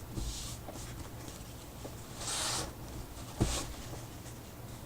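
Soft swishing and rubbing of a cloth over gesso-coated paper, a few strokes with the strongest about halfway through, and one light tap on the work surface about three and a half seconds in.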